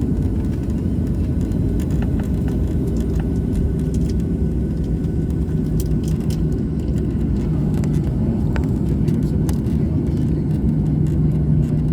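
Airliner cabin noise: a steady low rumble of the jet engines and airflow heard from inside the cabin. A low hum grows stronger in the second half, with a few faint clicks.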